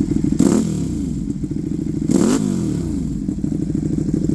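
Ducati Panigale V2's 955 cc Superquadro V-twin breathing through a Vandemon full titanium exhaust, idling with two short throttle blips about a second and a half apart. Each blip's pitch rises and falls straight back to idle.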